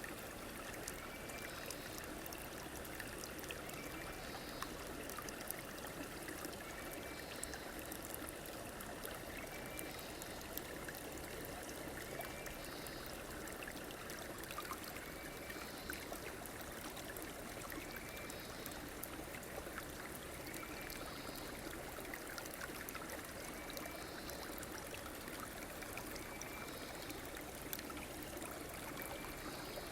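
A river's water flowing steadily, with a short high call repeating every two seconds or so.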